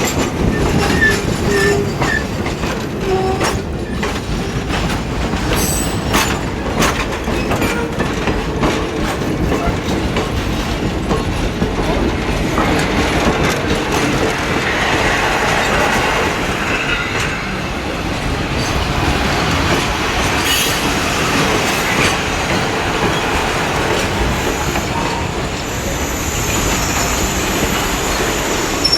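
Train rolling along the track: a steady rumble of steel wheels on rail, with sharp clicks over the rail joints in the first several seconds.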